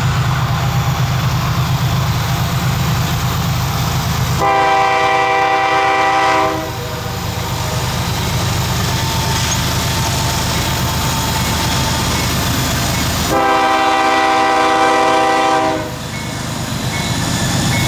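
CSX intermodal freight train's diesel locomotives running with a steady low rumble, sounding a multi-chime air horn in two long blasts, about four seconds in and again about thirteen seconds in.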